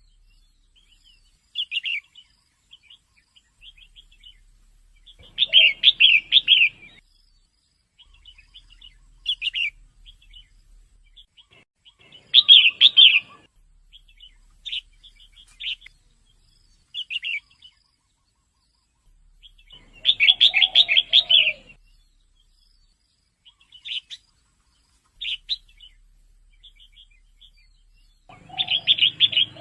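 Female red-whiskered bulbul calling: short chirps scattered through, with louder chattering phrases about every seven to eight seconds.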